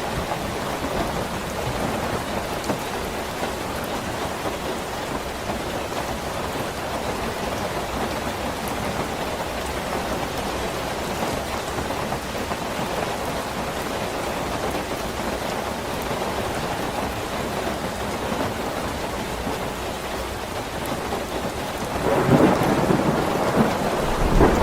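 Steady rain falling, with a low roll of thunder starting near the end.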